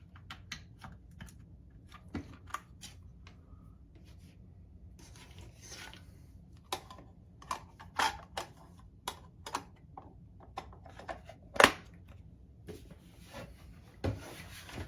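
Irregular clicks and knocks of hard plastic parts being handled and fitted together, with a few stretches of soft rustling; one sharper knock stands out about two thirds of the way through.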